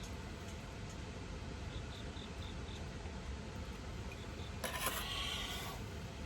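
An insect chirping in short runs of quick, evenly spaced high pulses, over a steady low background noise, with a brief rustle a little over four seconds in.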